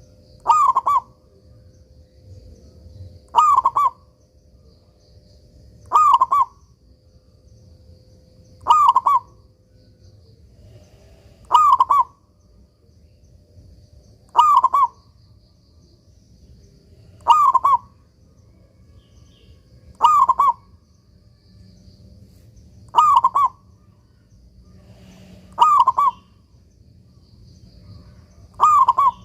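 Zebra dove (perkutut) singing, repeating its short cooing phrase eleven times at an even pace of about one every three seconds.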